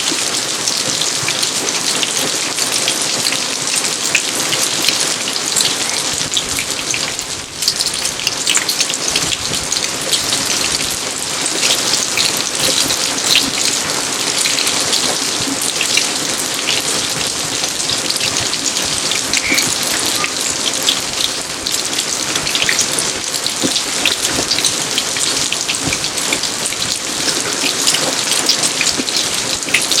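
Steady rain falling on an outdoor garden, an even hiss of water dotted with many distinct drop hits. It eases briefly about seven seconds in.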